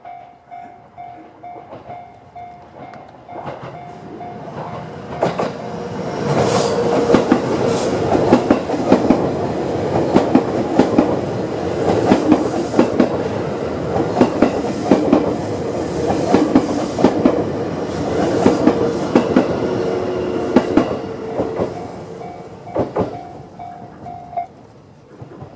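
A railway level-crossing alarm, the JR standard electronic tone, pulsing steadily. About five seconds in, a 651-series electric train approaches and passes for about fifteen seconds with loud, rhythmic wheel clatter over the rail joints, covering the alarm. As the train fades, the alarm is heard again and stops near the end.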